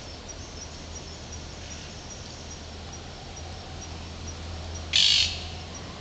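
A single short harsh bird call, a squawk lasting about a third of a second, about five seconds in. Faint high ticking, about three a second, runs beneath.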